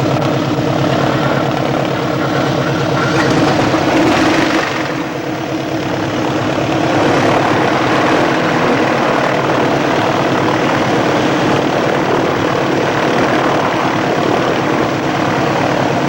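Twin piston engines of a Piper Seneca running at low power after start-up, a steady propeller-engine drone. The note swells briefly about four seconds in, then dips and settles back to a steady run.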